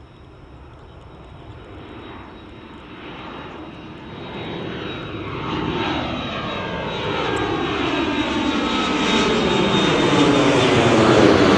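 Jet airliner engines at takeoff power, growing steadily louder as the aircraft draws nearer, with a swirling roar whose tones slide downward.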